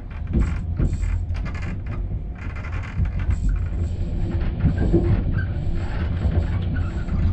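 Steady low rumble of a PKP EuroCity passenger train running, heard from inside the coach, with the wheels knocking irregularly over the track.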